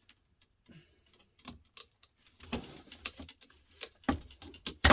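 Irregular metallic clicking and rattling as a humidifier's aluminium-fin and copper-pipe radiator is handled, growing into denser, louder clatter about halfway through.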